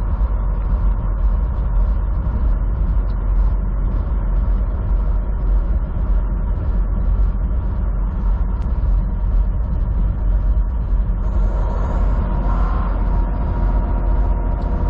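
Semi truck's engine and road noise heard inside the cab while driving, a steady low drone.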